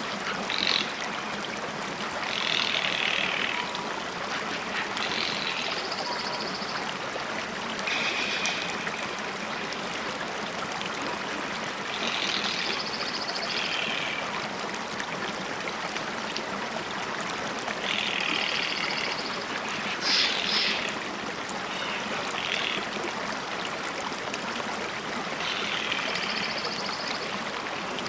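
Steady flowing water, like a stream, with short bird calls repeating every few seconds over it.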